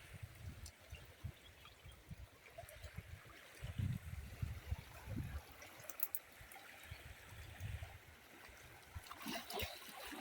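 Swollen, flooded river flowing steadily, with irregular low thumps on the microphone.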